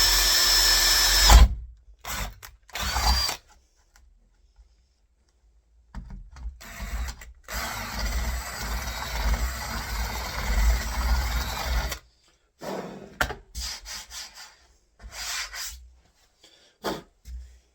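Power drill with a 10mm wood bit boring the handle spindle hole through a door: the motor whines at a steady pitch and stops about a second and a half in, then gives a short second burst. From about six to twelve seconds there is a long stretch of rough grinding noise from the bit working in the wood, followed by a few short knocks and scrapes.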